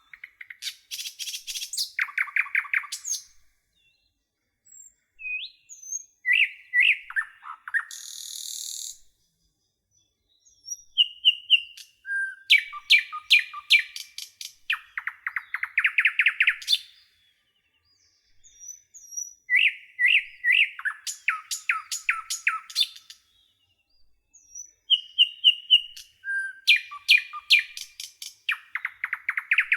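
Common nightingale singing in separate phrases a few seconds long, with silent gaps between them. The phrases mix series of pure whistled notes, fast runs of repeated clicking and chattering notes, and one short harsh buzz.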